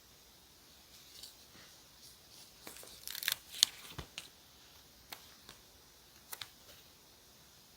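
Close-up paper and stationery handling while decorating a journal: a brief flurry of crisp paper rustles and ticks about three seconds in, a soft thump just after, then a few scattered light clicks.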